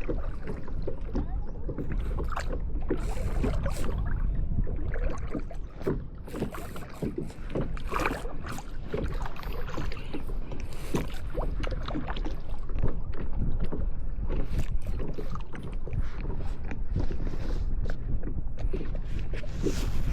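Kayak paddles dipping and pulling through lake water: irregular splashes and drips over a steady low rumble.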